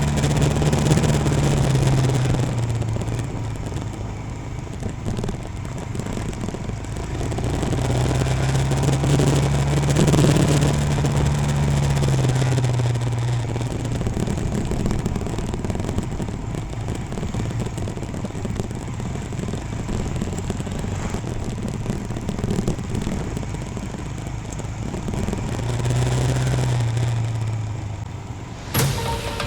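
Royal Enfield Himalayan motorcycle engine running under way, its note swelling and easing several times over a steady rush of wind and road noise.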